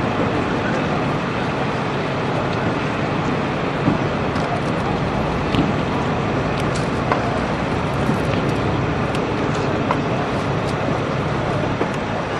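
Steady mechanical drone of running engines, with occasional sharp clicks and knocks.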